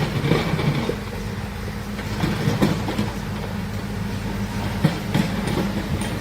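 Heavy diesel earthmoving machinery running with a steady low drone, with irregular metallic clanks and knocks over it, like steel tracks or a bucket striking.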